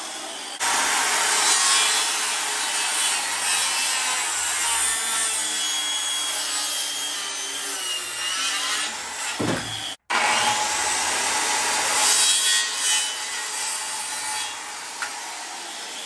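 Power tool working wood, a loud, steady cutting or abrading noise that drops out for an instant about ten seconds in and stops abruptly at the end.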